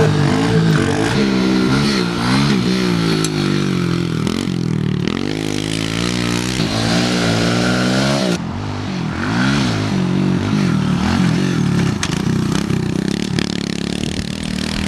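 110cc four-stroke pit bike engines riding around a dirt track, revving up and down again and again, with an abrupt change in the sound about eight seconds in.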